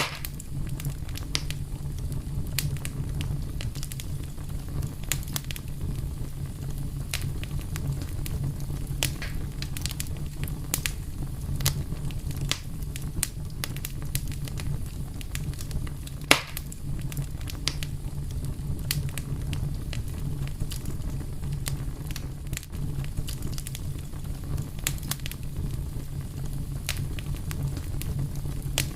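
Wood fire burning with a steady low rumble and scattered small crackles and pops, one sharper pop about halfway through.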